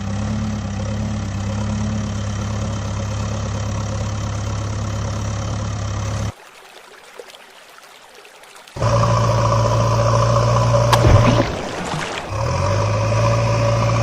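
A vehicle engine running steadily at idle. It cuts off abruptly about six seconds in, and after a quieter gap of about two and a half seconds a louder, steady engine sound starts suddenly, drops briefly and picks up again.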